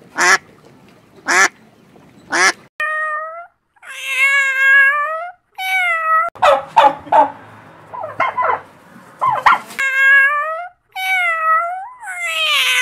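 A cat meowing again and again, long drawn-out meows that rise and fall in pitch, with a patch of rougher, choppier calls in the middle. The first couple of seconds hold three short, sharp calls.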